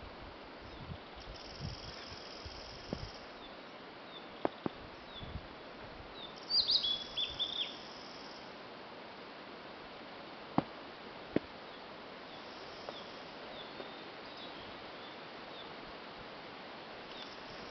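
Wild birds singing: faint, high song phrases come and go in the distance, and about six and a half seconds in a nearer bird gives a louder phrase of quick notes stepping downward. A few sharp clicks stand out over a steady background hiss.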